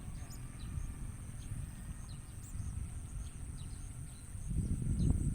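Short, faint high chirps from bar-winged prinias, scattered through, over a steady high whine and a low rumble on the microphone that grows louder about four and a half seconds in.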